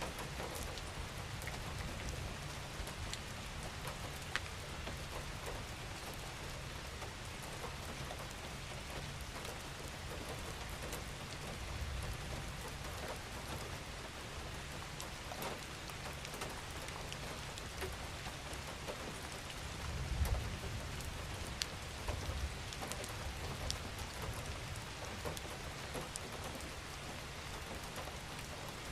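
Steady gentle rain falling on a surface, an even hiss dotted with the ticks of individual drops over a low rumble that swells briefly about twenty seconds in.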